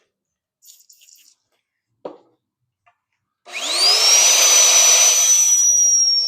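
Electric drill starting up about three and a half seconds in: the motor's whine rises quickly in pitch, then runs steady and high, for drilling holes in half-inch steel plate. A few faint clicks and a single knock come before it.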